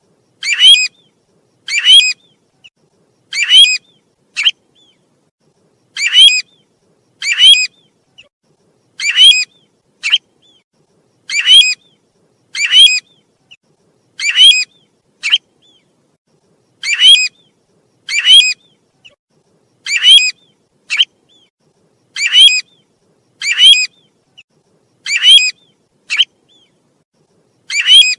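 Loud, repeating call of the bird sold in Vietnam as 'tu huýt', played as a lure recording. A sharp call sounds about every one and a half seconds, with a softer short note after every second call.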